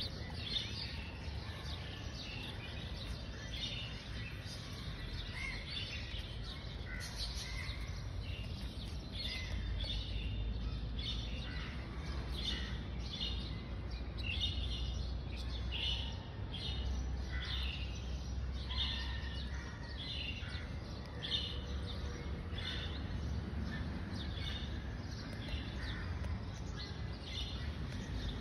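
Small birds chirping, short repeated calls at about two a second, over a steady low rumble.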